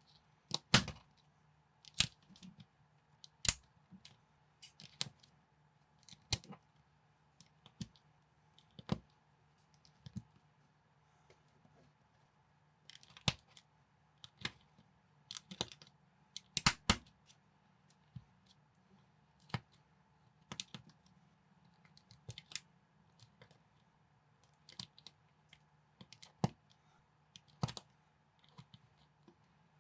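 Lego-compatible plastic building bricks being handled and pressed together: irregular sharp clicks and snaps, roughly one a second, some in quick doubles. A faint steady hum runs underneath.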